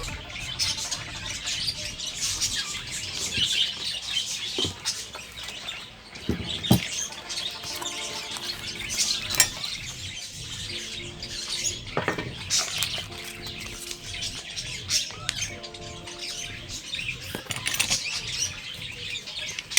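Scattered clicks and knocks of metal parts being handled as a chainsaw attachment is fitted onto an angle grinder, with birds chirping throughout and faint background music.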